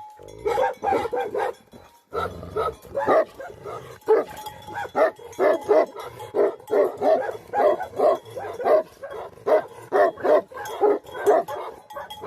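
Tibetan Mastiff barking rapidly and over and over, about two to three barks a second, with a short break about two seconds in.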